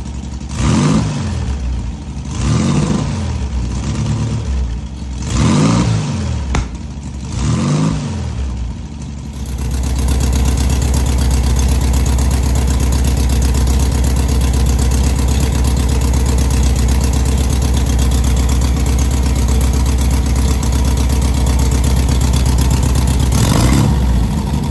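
Freshly rebuilt air-cooled flat-four engine of a 1970 VW Beetle being revved in about six quick blips, each rising and falling in pitch. About nine seconds in, it settles into a steady, louder run at a constant speed, with one more short blip near the end.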